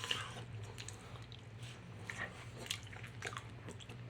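Someone chewing a mouthful of mac and cheese close to the microphone: soft wet mouth sounds with scattered small clicks, over a steady low hum.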